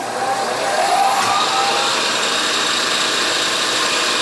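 Milling machine motor spinning up, its whine rising in pitch over the first second or so, then running steadily.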